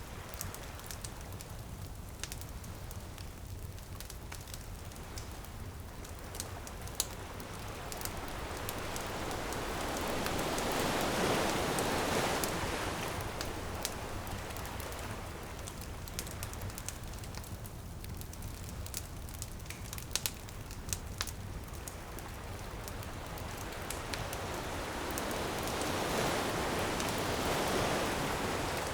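Ocean waves on a beach, the surf swelling up and washing back twice, near the middle and near the end, over a wood fire crackling and popping with many sharp little snaps.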